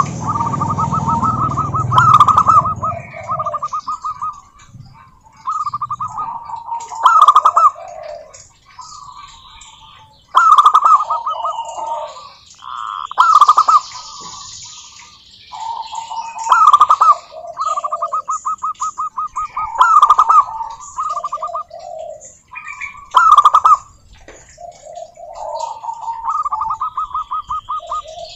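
Zebra doves cooing: repeated staccato phrases of rapid pulsed notes, each dropping to lower coos at the end, a new phrase every few seconds with phrases overlapping as if more than one bird is calling.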